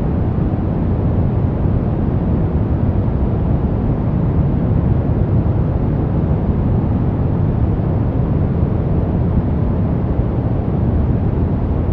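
Steady brown noise: an even, deep rushing hiss, strongest in the low end and rolling off toward the highs, with no changes.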